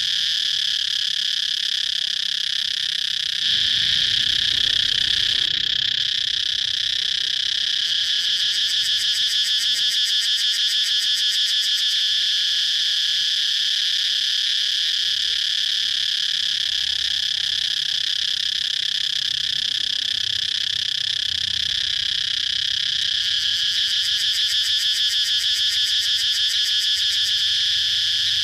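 Cicadas chirping in a continuous, loud, high-pitched buzzing chorus, with a fast pulsing that comes and goes. The chorus gets slightly louder about three seconds in.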